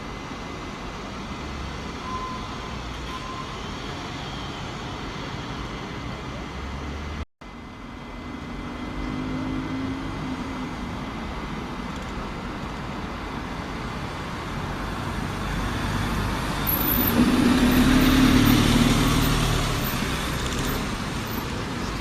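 Road traffic with a heavy vehicle's engine. It cuts out briefly about seven seconds in, then builds as a vehicle passes close about three-quarters of the way through, with an engine drone and a high whine, and fades again.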